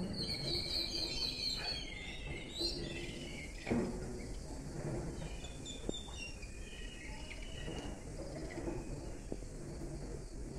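Small birds chirping, a quick run of high calls in the first few seconds and again around the middle, over steady low background noise. A single short knock a little under four seconds in is the loudest moment.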